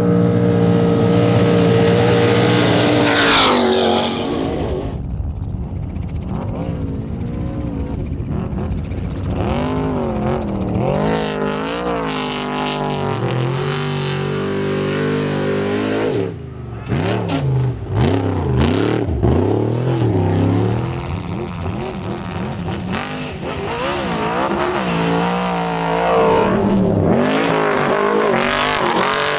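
Off-road race truck engines revving hard and passing at speed, the pitch rising and falling through gear changes, cut together from several clips with abrupt changes between them.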